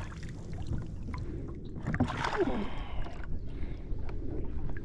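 Water moving against a fishing kayak's hull, a steady low rumble with scattered small clicks and knocks from handling tackle, as a hooked bass is brought alongside.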